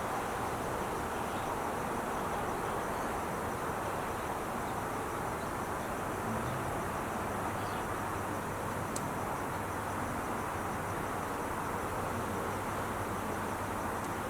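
Steady, continuous hum of Interstate 5 freeway traffic, with faint, rapid insect chirping repeating high above it and a single short tick about nine seconds in.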